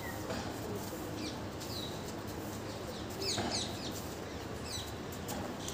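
Small birds chirping: short, high chirps that fall in pitch, a few at a time, with a quick cluster about three seconds in.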